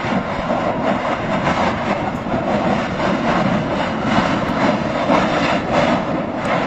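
Mount Etna's summit eruption at the Voragine crater: a steady, dense rushing noise of the volcano venting, with no distinct separate blasts.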